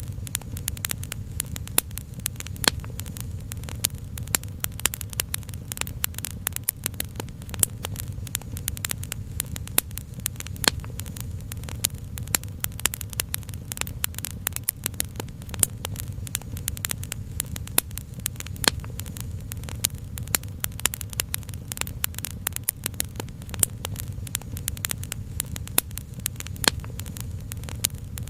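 Wood fire crackling, with dense, irregular pops and snaps over a steady low rumble.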